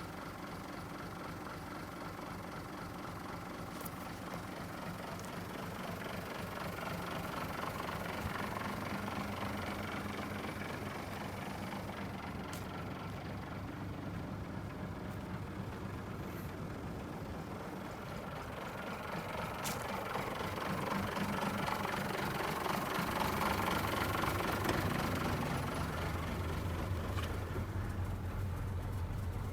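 Mitsubishi Fuso Fighter truck's 6D15 inline-six diesel engine idling steadily with a diesel knock, growing somewhat louder partway through, with a few faint clicks.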